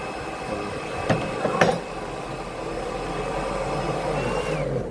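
A steady rushing, machine-like noise with two sharp knocks about one and one and a half seconds in; the rushing cuts off right at the end.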